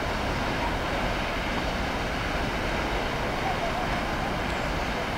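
Freight train of loaded container wagons rolling along the track, a steady, even rumble of wheels on rails.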